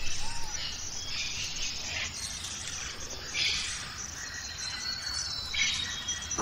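Steady high-pitched insect chirring, with a few short bird chirps now and then.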